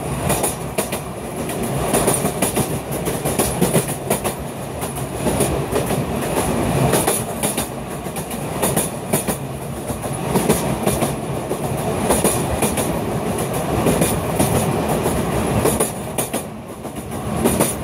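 Sóller railway train running along its narrow-gauge track, heard out of an open carriage window: a steady rumble and rattle with the wheels clicking irregularly over the rail joints. It is briefly a little quieter near the end.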